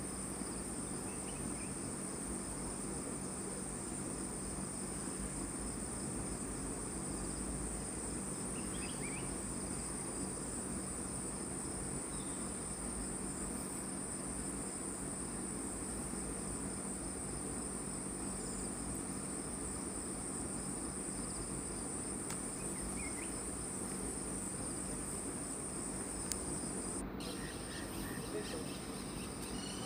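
Steady high-pitched drone of forest insects that cuts off suddenly near the end, with a few faint chirps here and there.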